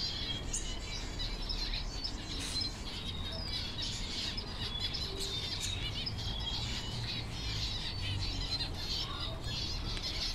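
Several small birds chirping and twittering, with many short high chirps overlapping one another throughout, over a low steady rumble.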